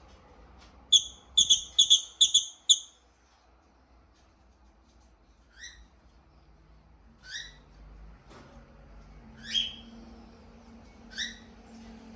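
Lovebird chirping: a quick run of about six sharp, high chirps about a second in, then single rising chirps every couple of seconds.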